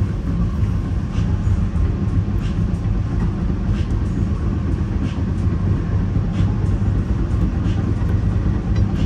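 Metra commuter train running along the track, heard from inside the rear car: a steady low rumble with faint clicks coming about every second and a quarter.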